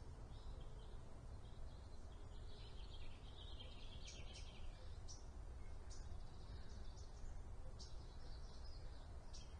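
Small birds chirping and twittering in quick short notes again and again, over a steady low rumble.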